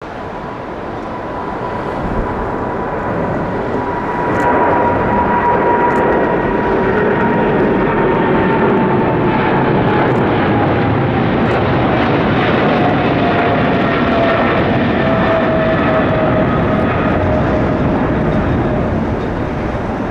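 Jet airliner's engines passing close by: a loud, steady rush of engine noise that grows louder about four seconds in, with a whine that slowly falls in pitch as the aircraft goes past.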